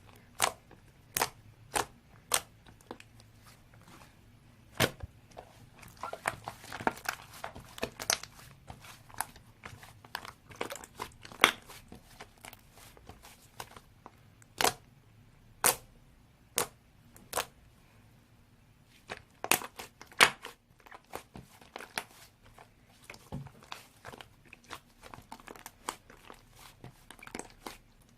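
Slime being squeezed and kneaded by hand, giving irregular sharp pops and clicks as air pockets burst, with a denser crackling stretch about a quarter of the way in.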